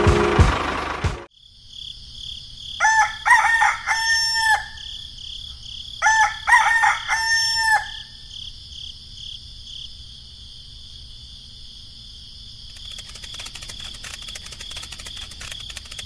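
A rooster crowing twice, each crow just under two seconds long, over a steady high hum. A louder sound cuts off sharply about a second in, and a fast run of clicks starts in the last few seconds.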